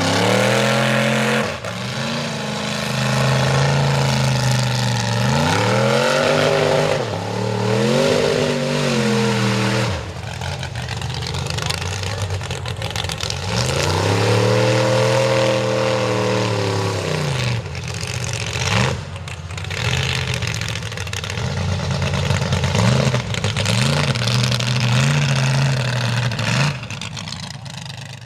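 Mega truck's engine revving hard in repeated long swells as it drives through a mud bog, the pitch climbing and falling several times, with quicker, smaller revs near the end.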